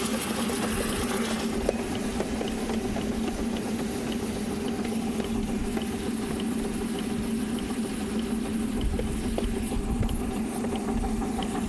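A 7¼ inch gauge miniature steam locomotive heard from the footplate as it runs with its injector on, feeding water into a boiler that is running low: a steady hum with a high hiss that drops away about a second and a half in, and light ticks about twice a second.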